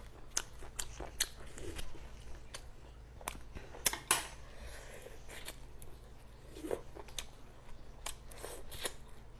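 Close-miked chewing of braised seafood: a person eating, with mouth smacks and short sharp clicks coming irregularly, the loudest about four seconds in.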